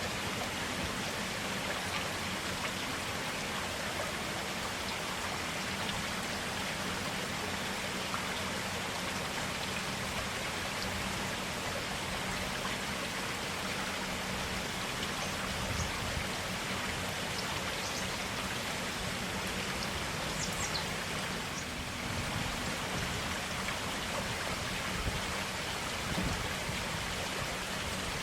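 Forest stream flowing steadily, an even rushing of clear water over rocks.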